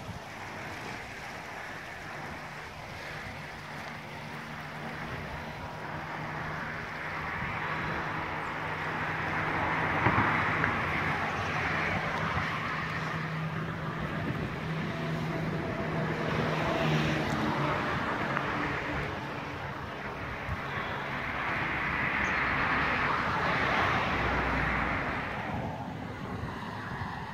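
Vehicles passing: a steady rushing noise that swells and fades twice, with a low engine hum under it through the first half.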